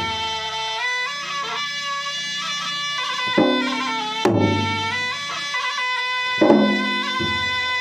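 Traditional Makassar gendang wedding music: a reed wind instrument plays long held melody notes while the gendang drums come in with a few heavy strokes spaced a second or two apart.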